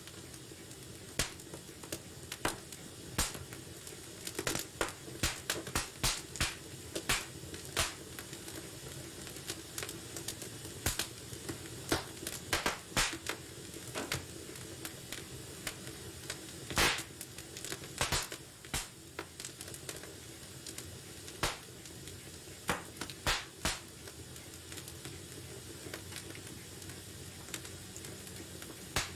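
Wood fire burning in a fireplace: irregular sharp crackles and pops, some in quick clusters, over a steady low hiss of the flames.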